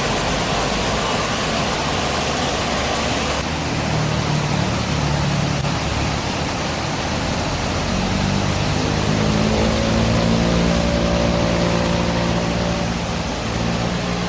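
Wind rushing over the microphone while riding, with a vehicle engine droning at a steady pitch that steps up and down now and then. The sound changes abruptly about three and a half seconds in.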